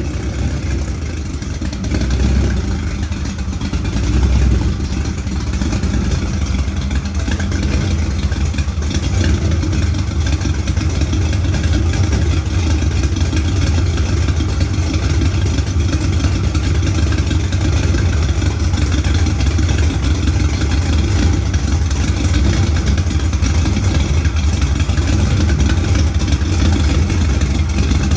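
408 cubic-inch stroker LS V8, built on a 6.0 block, running on an engine stand on its first start-up. It rises briefly twice in the first few seconds, then runs at a steady speed.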